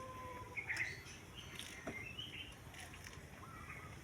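Small birds chirping: scattered short chirps and brief trills, with a single sharp tick about two seconds in.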